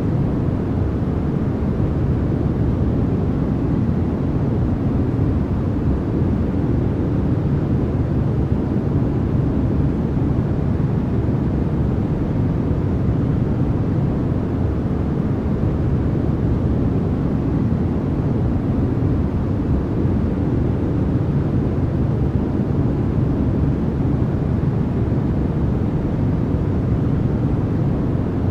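Steady, unbroken white noise with no changes or events, its energy weighted toward the low end, so it sounds more like a deep rush than a bright hiss.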